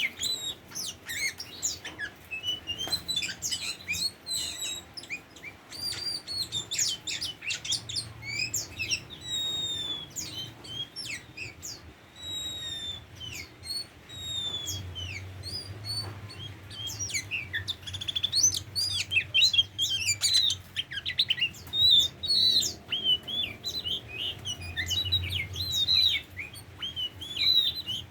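Oriental magpie-robin (kacer) singing a long, varied song of quick chirps, whistles and rising and falling sweeping notes, with hardly a pause.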